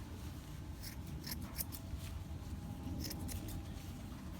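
Scissors snipping through a poodle's coat in short, irregular cuts, over a low steady hum.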